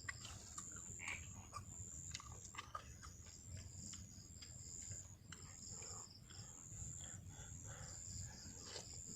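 Night insects trilling in a high band that pulses on and off, with many small close clicks and knocks underneath.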